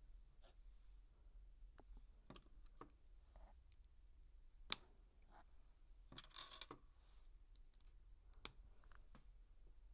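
Quiet, scattered clicks and taps of plastic LEGO bricks being handled and pressed together. The sharpest click comes a little under five seconds in, and a brief rustle of pieces follows a second or so later.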